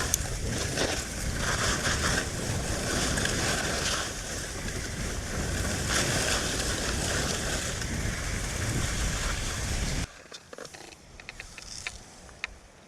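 Strong wind buffeting the microphone, a loud, steady rushing noise that drops off suddenly about ten seconds in, leaving a much quieter stretch with a few faint clicks.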